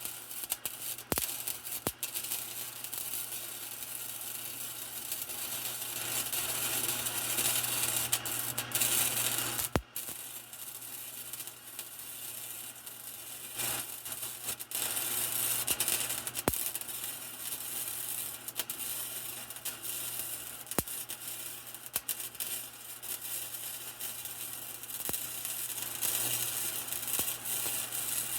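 Electric arc welding: a continuous crackling sizzle with scattered sharp pops and a low steady hum underneath, briefly breaking off about ten seconds in.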